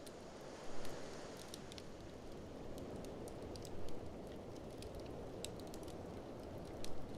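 Wood fire crackling in a fireplace, with scattered sharp snaps and three louder pops about three seconds apart, over a steady rushing blizzard wind.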